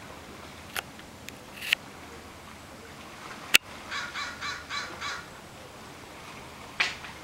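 A bird calls a quick run of about six harsh notes about four seconds in. Around it are a few sharp clicks and snaps, the loudest a single crack just before the calls.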